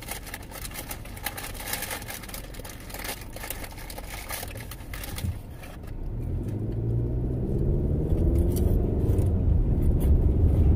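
Car accelerating, heard from inside the cabin: about six seconds in, the engine note rises in pitch and grows louder, then holds steady. Before that there is light rustling and clicking over low road noise.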